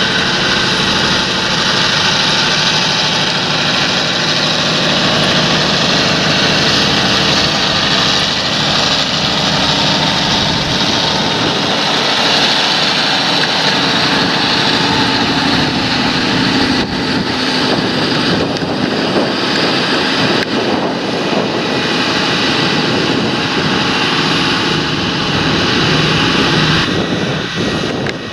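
Large John Deere tractor engine running steadily under load while working a field.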